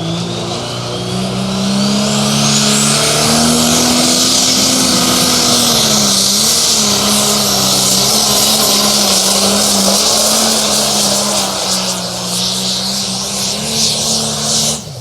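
A pulling vehicle's engine run hard at full throttle down the track. A whine rises over the first few seconds and then holds as a loud, steady drone. It eases off just before the end.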